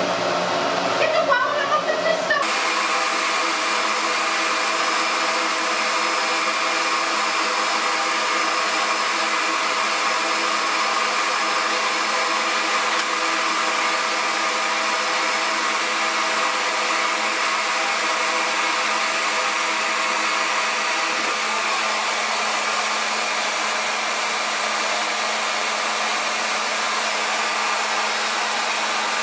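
RevAir reverse hair dryer, a suction dryer that draws the hair into its wand, running steadily: an even rush of air over a steady motor whine of several tones. It cuts in abruptly about two seconds in.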